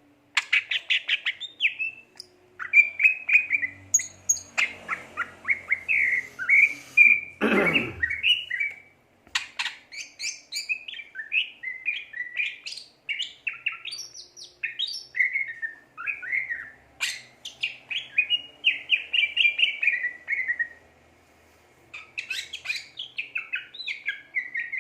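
Green leafbird (cucak ijo) singing in full voice: long runs of fast, varied chirps and whistled notes, broken by two short pauses. A loud note sweeps steeply down in pitch about eight seconds in.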